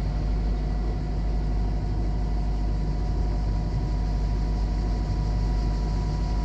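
A sailing yacht's engine running steadily as the boat motors along: an even low drone with a faint steady hum above it.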